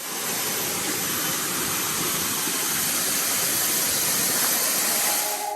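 Small waterfall rushing and splashing: a steady, even hiss of falling water.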